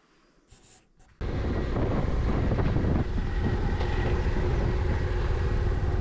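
Motorcycle riding, engine and wind and road rumble, cutting in abruptly about a second in after near quiet and then running steadily.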